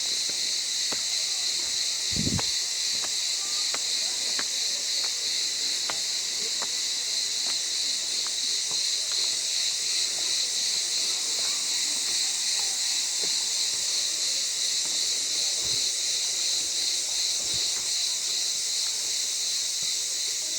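Cicadas chirring: a steady, high shrill buzz with a fine pulsing, and a few faint clicks and a short low thump about two seconds in.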